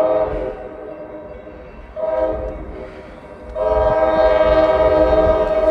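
Diesel locomotive's multi-chime air horn sounding the grade-crossing signal for an approaching train: a long blast ending about half a second in, a short blast about two seconds in, then another long blast from about three and a half seconds in. Wind rumbles on the microphone underneath.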